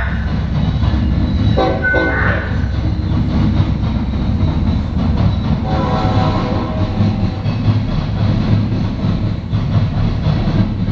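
Loaded coal train rolling past, a loud, steady low rumble of wagon wheels on the rails, with brief higher pitched tones twice, about two and six seconds in.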